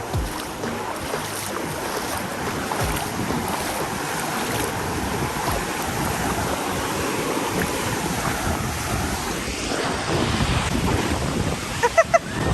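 Sea waves washing at the shore with wind blowing across the microphone, a steady rush of noise. Near the end come a few short high-pitched chirps.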